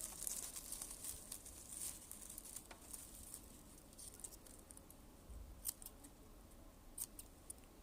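Close-miked ASMR trigger sounds: soft crinkling and rustling for the first couple of seconds, then a quieter stretch broken by a few sharp, light clicks.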